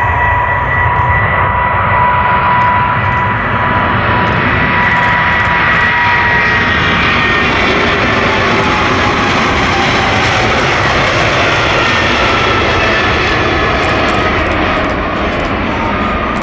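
Boeing 777-300ER's GE90 jet engines passing by: loud, steady jet noise with a whining tone that slowly falls in pitch as it goes past, easing off slightly near the end.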